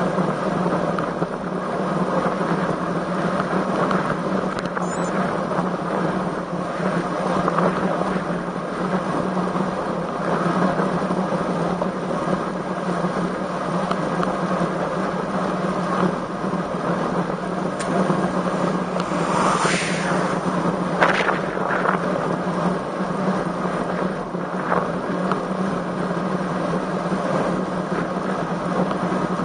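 Steady rushing wind and road noise on the microphone of a camera riding along on a road bicycle in strong wind, with a few short louder sounds about two-thirds of the way through.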